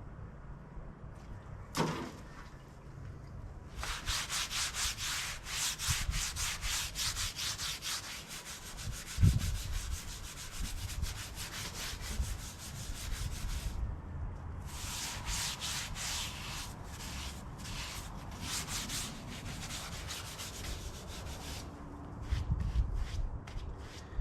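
Rhythmic hand scrubbing strokes on a part, like sanding or wire-brushing it clean before primer, in two long runs with a short pause between them. There is a dull thump about nine seconds in.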